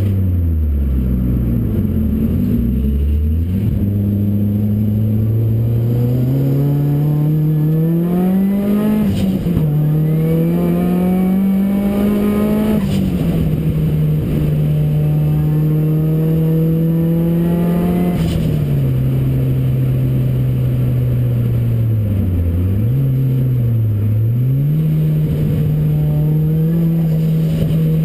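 Ford Racing Puma's modified Focus RS engine under load, accelerating and changing up: the engine note climbs and then drops sharply at each upshift. It holds steady between changes and dips briefly twice near the end as the throttle is lifted.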